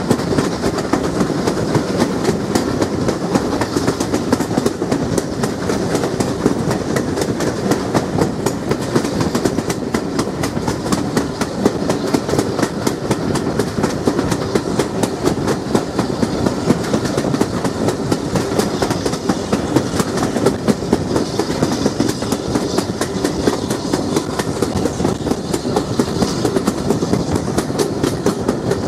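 Steam-hauled heritage passenger train running at speed, heard from an open carriage window: a steady rumble with a dense, continuous run of wheel clicks on the rails.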